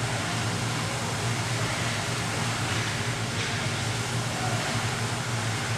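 Ice hockey rink ambience during play: a steady low hum under an even wash of arena noise.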